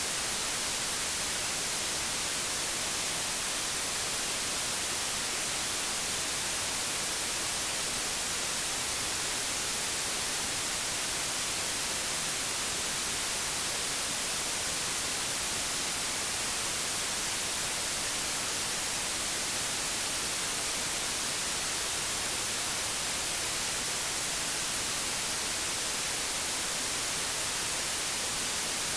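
Steady hiss of analogue television static (white noise), even and unchanging, brightest in the treble.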